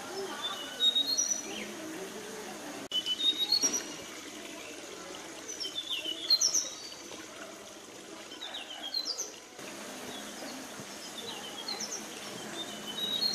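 Forest birds calling: many short chirps and whistles, some falling in pitch, repeated throughout over a steady background hiss. The sound changes abruptly about three seconds in and again near ten seconds.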